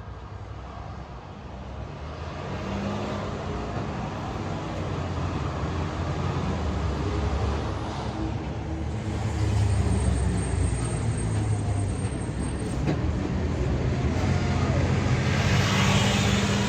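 Street traffic: vehicles passing one after another with a low engine rumble, swelling and fading, the loudest pass near the end.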